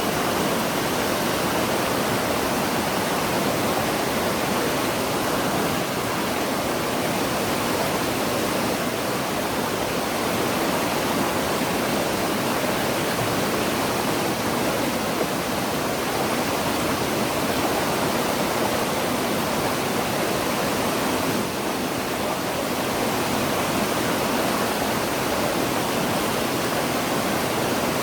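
Waterfall cascading over rocks into a pool: a steady, even rush of falling water with no break.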